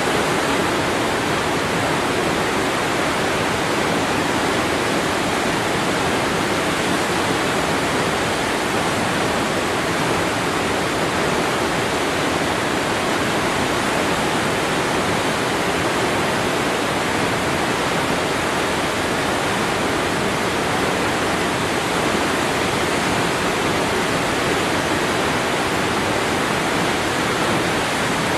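Waterfall: falling water crashing in a steady, even rush with no breaks.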